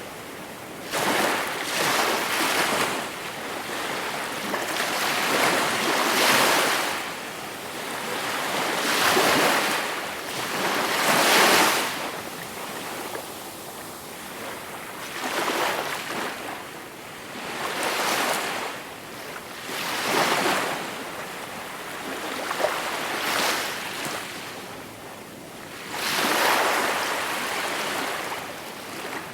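Gentle sea waves breaking and washing up on the shore, one surge of surf hiss after another every two to four seconds.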